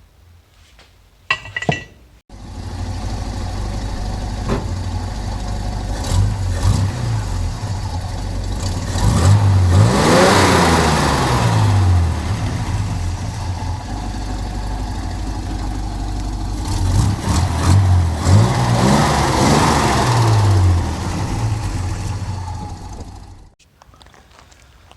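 A small engine starts up abruptly and runs steadily for about twenty seconds. Its speed sags and picks back up twice, about ten seconds in and again near twenty seconds, and then it cuts off suddenly.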